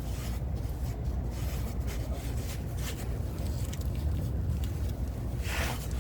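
Hands working a fiberglass exhaust repair wrap: small handling clicks and a brief scrape near the end, over a steady low rumble.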